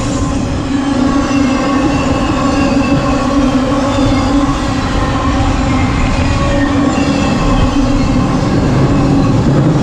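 CSX intermodal freight train's cars rolling past at speed: a loud, steady rumble and rattle of wheels on rail, with faint steady whining tones above it.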